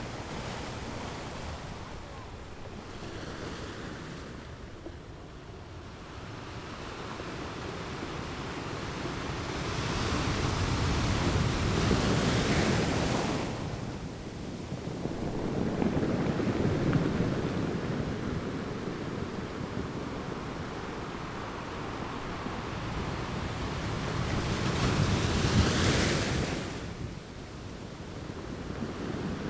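Sea waves breaking on a beach, the surf rising and falling. Two bigger waves build for a few seconds and crash, one near the middle and one near the end, with a smaller one between them.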